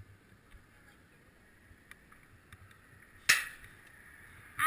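A single sharp knock a little after three seconds in, then a crow cawing once, loudly, right at the end.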